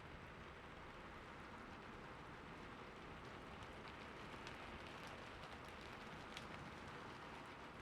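Soft, steady rainfall hiss with scattered faint drop ticks.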